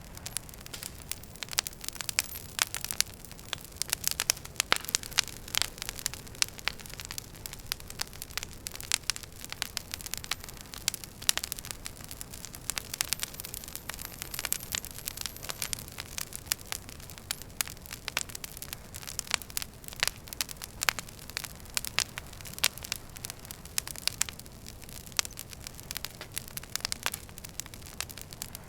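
Wood fire burning in a fireplace, crackling with many sharp irregular pops and snaps over a soft steady rush of the flames.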